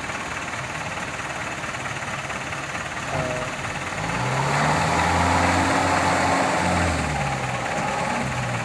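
Truck engine running at a low, steady idle, then revved up about four seconds in, held for some three seconds and eased back down.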